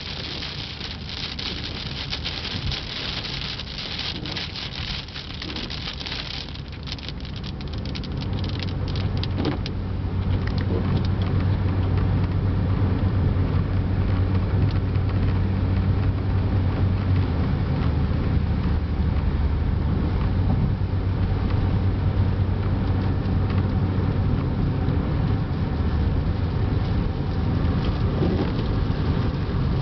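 Car driving in rain, heard from inside: heavy rain hissing on the windshield and roof over the low rumble of the engine and tyres. After about six seconds the rain hiss drops away almost at once, and from about ten seconds in the road rumble grows louder and steadier.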